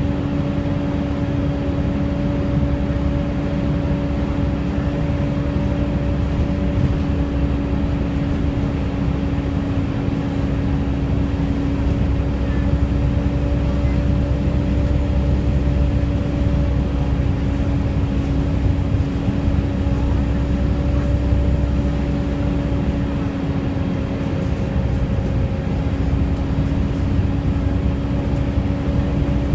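Volvo B7TL bus's cooling fan giving its loud 'hoover' whine, a steady tone at one pitch, over the low rumble of the engine.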